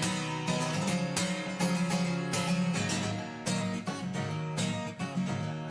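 Guitar strummed in a steady rhythm, about two strokes a second, in the instrumental passage of a song, with no singing.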